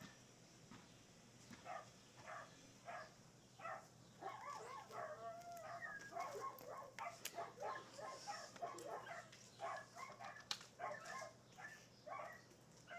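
Faint animal calls: short pitched yelps repeated every fraction of a second, coming thicker and overlapping from about four seconds in, with a couple of sharp clicks.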